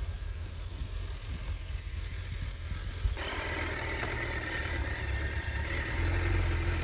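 Low wind rumble on the microphone, then, after an abrupt change about three seconds in, a motorcycle engine idling steadily, a little louder near the end.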